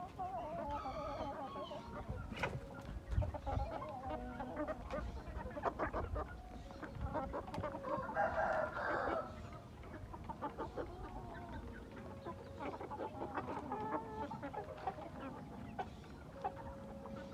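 Chickens clucking on and off, with a rooster crowing once about eight seconds in.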